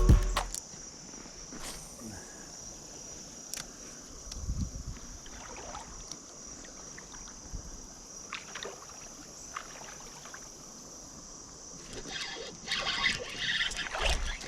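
Creek water running, with scattered small splashes and knocks that grow busier near the end, under a steady high hiss.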